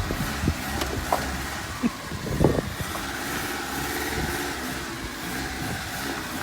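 Vehicle engine running steadily, with a few knocks and thumps over it, the loudest about two and a half seconds in.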